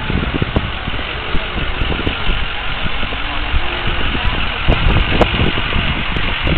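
A car engine idling steadily, with a dense background of noise and irregular low knocks.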